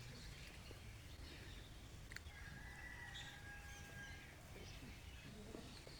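Chickens faintly in the background, with a drawn-out call lasting about two seconds that starts about two seconds in.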